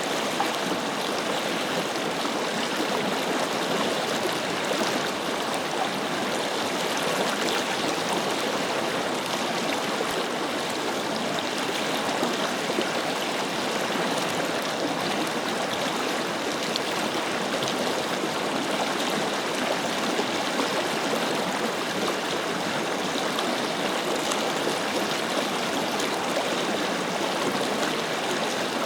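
A forest river or stream flowing steadily over rocks: a continuous rushing, gurgling flow of water.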